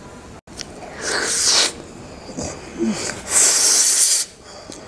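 Close-miked mouth sounds of chewing a soft brownie coated in peanut butter, with two loud breathy hisses, about a second in and again past the third second.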